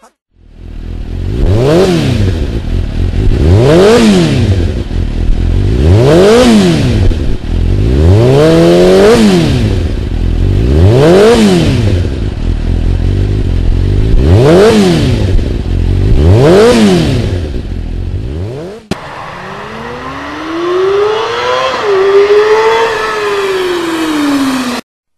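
A motorcycle engine revved hard again and again, its pitch climbing and dropping back about seven times a couple of seconds apart. After a sudden cut, one slower rev climbs, dips briefly and falls away.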